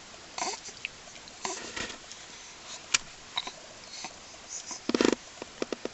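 A baby passing gas: one short, buzzy fart about five seconds in, after a few soft rustles and small noises.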